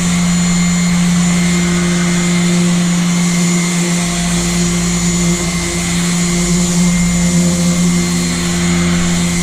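Electric power sander running steadily on the painted aluminium hull of a boat, a constant motor hum with the hiss of the sanding pad against the paint.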